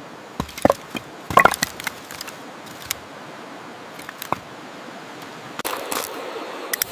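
Irregular wooden knocks and clatter, loudest in a quick cluster about one and a half seconds in, as of sticks or boards being handled in shelter building, over a steady hiss of rain.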